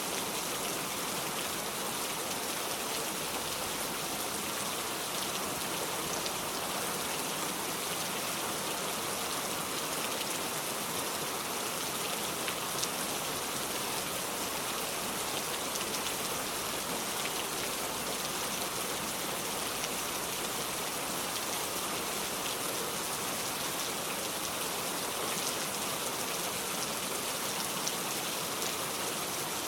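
Steady rain falling, an even hiss of drops with a few faint ticks.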